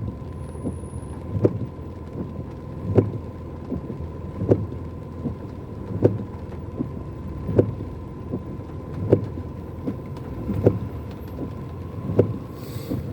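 Windscreen wipers of a car sweeping in heavy rain, a knock about every second and a half as the blades turn, over the steady low hum of the car's cabin.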